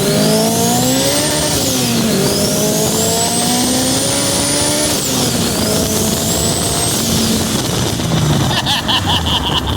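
Swapped Honda S2000 four-cylinder engine in a Suzuki Samurai under hard acceleration, revving up through the gears, with a high whine rising alongside. Its pitch climbs, drops at each upshift about two seconds in and again about five seconds in, then climbs once more before the engine eases off near the end.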